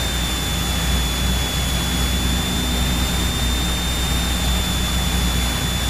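Cessna 172 piston engine and propeller running steadily at about 1800 RPM during the pre-takeoff run-up, while the magnetos are checked. There is a thin, steady high whine over the engine drone.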